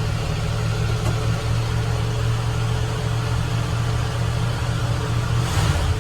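1970 Ford F100 pickup's engine running at a fast idle seconds after a cold start. It runs steadily, then near the end gives a brief whoosh and settles to a lower engine speed.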